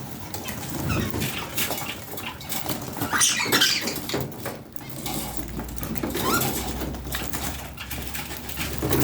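Pet budgerigars chirping in short rising calls, over scratchy clicks and patter from the birds moving about. A low hum comes in about halfway.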